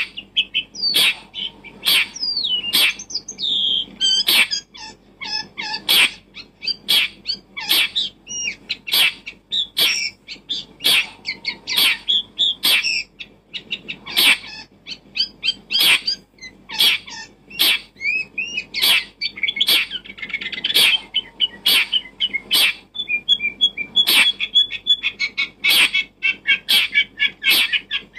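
Small birds chirping and twittering in short trills, mixed with sharp clicks about twice a second.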